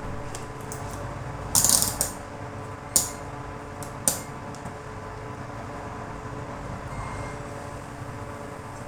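Hard parts or tools being handled: a short clatter about one and a half seconds in, then two single sharp clicks about a second apart, over a steady low hum.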